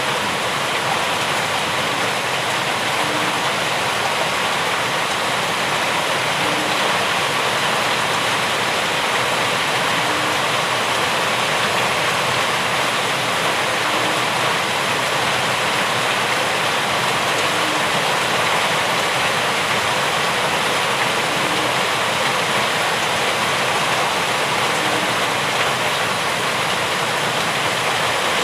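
Steady, dense rainfall: an even, unbroken hiss of rain with no letup.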